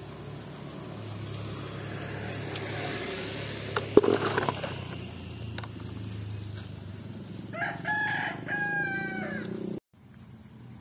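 A rooster crowing once near the end, over a steady low hum, with a sharp knock about four seconds in.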